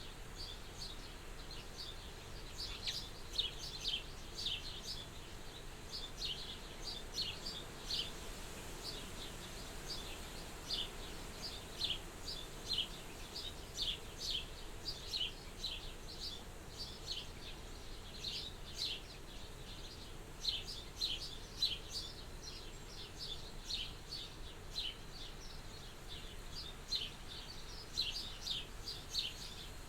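Small birds chirping over and over: short, high, downward-slurred chirps in irregular clusters, over a faint steady hiss of soft wind.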